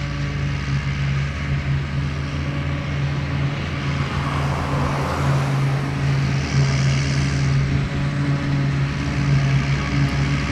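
Large diesel farm machinery engine running steadily under load, with a swell of broader noise about halfway through.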